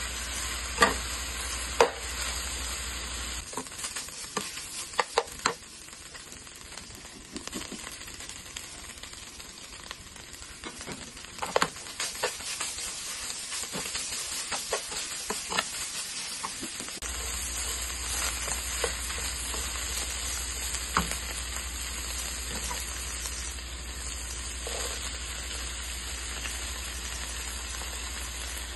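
Shrimp, beef and onion sizzling in a frying pan while being stirred with a spatula. The spatula clicks and knocks against the pan now and then.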